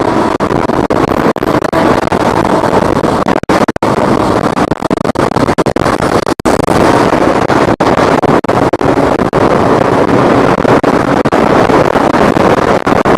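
Loud wind rushing over the microphone on a Kawasaki Ninja ZX-10R ridden at speed, with the bike's engine running underneath. The sound cuts out for an instant many times.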